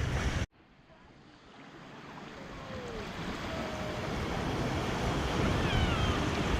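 Ocean surf washing with wind on the microphone; the sound cuts off abruptly about half a second in and then fades back in, growing gradually louder.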